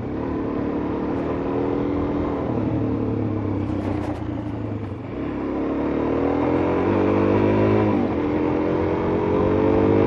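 Suzuki DR-Z400S single-cylinder four-stroke engine under way, holding steady, then rising in pitch from about halfway. The pitch dips briefly about eight seconds in and climbs again.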